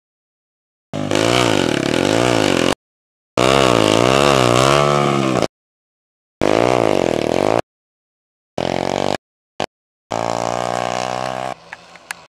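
Motocross bike engines revving, the pitch swinging up and down repeatedly with the throttle, in about five short loud stretches that each cut off abruptly into dead silence.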